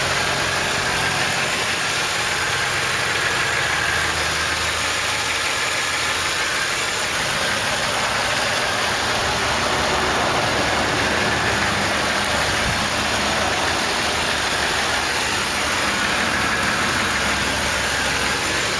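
2006 Mercedes-Benz ML500's V8 engine idling steadily.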